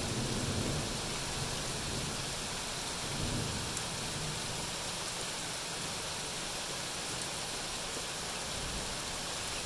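Steady rain making an even hiss, with a low rumble at the start and again about three seconds in.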